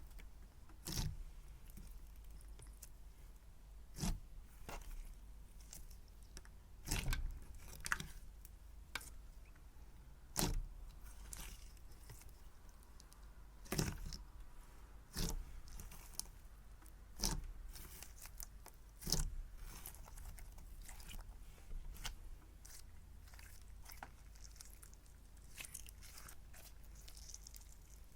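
Hands squishing and stretching cloud cream slime: a soft crackling and tearing texture broken by sharp pops every second or few.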